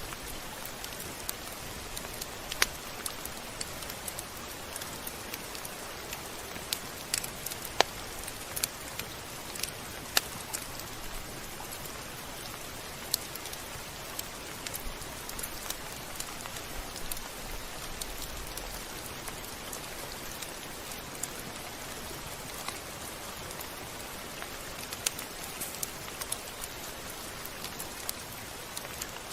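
Steady rain falling, an even hiss with frequent sharp ticks of drops striking a surface.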